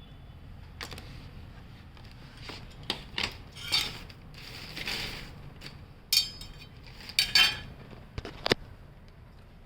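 Irregular metallic clinks and clatter of tools and metal parts being handled during work on a UPS, with the loudest rattles a little past halfway through.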